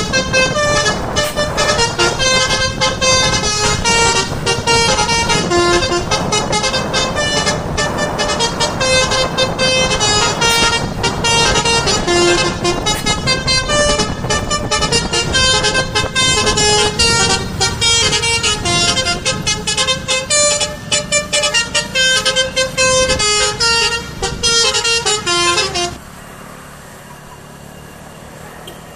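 Bus's multi-tone musical horn (an Indonesian 'telolet' horn) playing a long, loud run of changing notes like a tune. It stops suddenly a few seconds before the end, leaving a quieter steady engine and road rumble.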